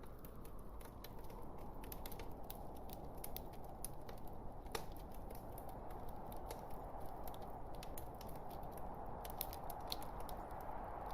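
Log fire crackling: irregular sharp pops and snaps over a steady low rushing of the flames, with one louder snap near the middle.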